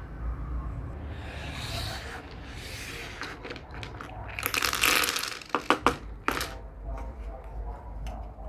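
Toy packaging being handled and torn open: crinkling and rustling, one loud tear about halfway through, then a few sharp clicks.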